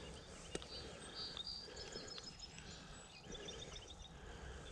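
Faint birdsong: short high chirps and trills scattered through, with a single small click about half a second in.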